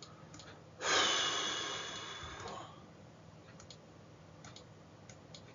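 A person's long sigh or exhale close to the microphone: it starts abruptly and fades away over about two seconds. A few light mouse or keyboard clicks follow.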